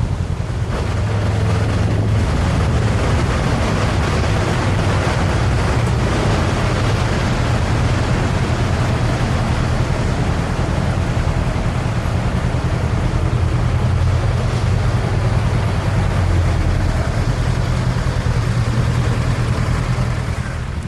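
An engine running steadily under loud wind noise on the microphone.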